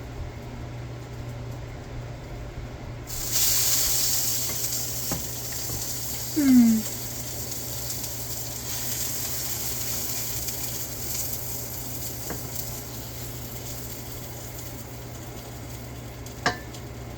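Birria taco tortilla frying in a hot pan: a sizzle that starts suddenly about three seconds in and keeps going. About halfway there is a short falling tone, the loudest moment, and a few sharp clicks from utensils near the end.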